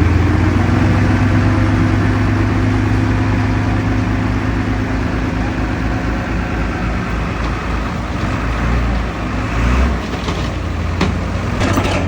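Heavy diesel engine of earthmoving machinery running steadily, with a low even hum and pulse. Sharp metallic clanks and knocks come in near the end.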